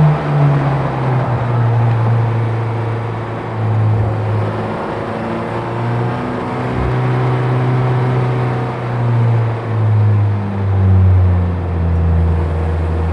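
Honda Civic FK8 Type R's turbocharged 2.0-litre four-cylinder engine running at low, fairly steady revs, with small rises and dips in pitch and a steady drone near the end.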